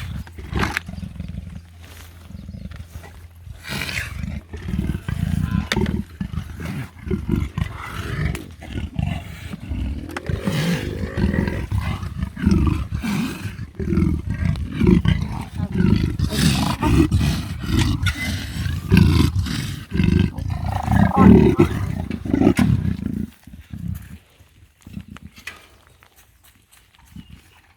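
A leopard calling in a long series of low, rasping grunts at about two a second, the leopard's sawing call. The calls build up over the first few seconds and stop shortly before the end.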